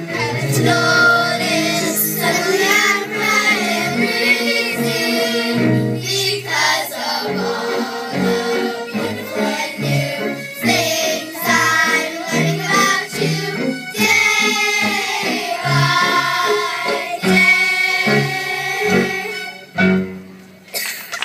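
Children's choir singing a song with instrumental accompaniment; the music drops away near the end.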